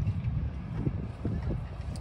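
Low, unsteady rumble of a train approaching slowly along the line, mixed with wind buffeting the microphone.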